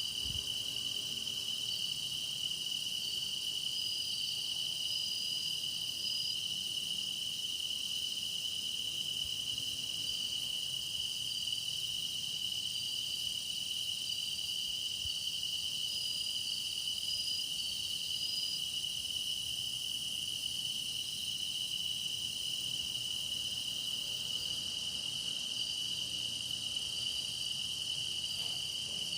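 Steady chorus of grass insects singing: one continuous high trill, with fainter, higher trills coming and going above it.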